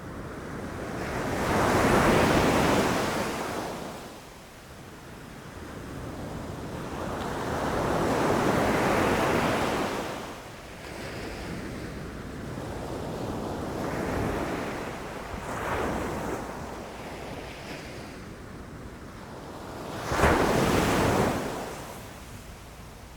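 Ocean waves breaking on the shore, the surf swelling and fading in broad rushes about every six seconds, with a sharper, louder crash near the end.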